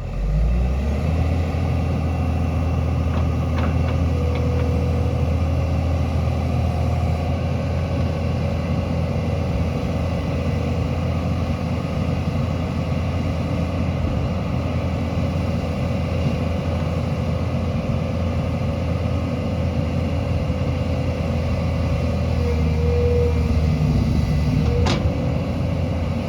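Heavy earthmoving machine's diesel engine running steadily, with one sharp click near the end.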